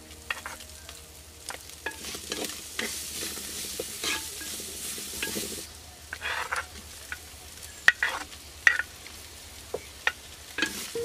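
Food frying in a pan with a light sizzle while a utensil stirs it, giving irregular knocks and scrapes against the pan.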